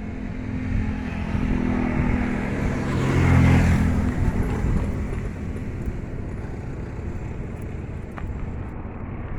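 A truck's diesel engine running steadily at idle. It grows louder for about a second around three seconds in.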